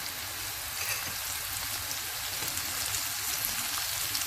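Shredded chicken frying in hot oil with onions and spices in a wok, a steady sizzle with faint crackles.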